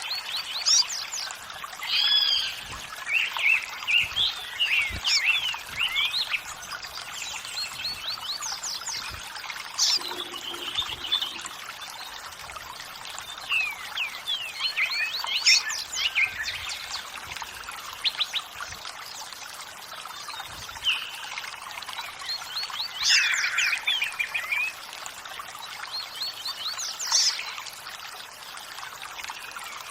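Running water, a steady trickling flow, with several birds singing and chirping over it in short bursts every few seconds.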